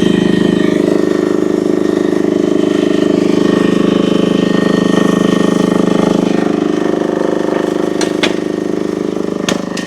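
Chinese UME10P mini excavator's engine running steadily while the hydraulic track drive turns to walk a thrown track back onto its sprocket, with a couple of sharp clanks near the end.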